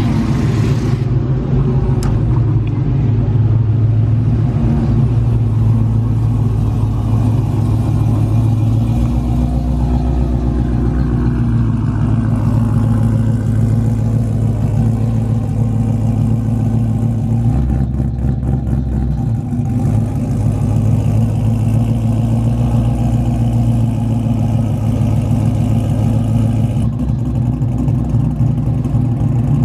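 A vehicle engine running steadily through its exhaust, a low, even note that shifts slightly a couple of times.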